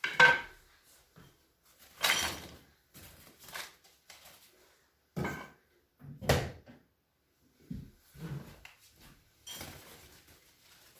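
Several irregular knocks and rattles, short and separate, the loudest just after the start and about six seconds in, with fainter scrapes between.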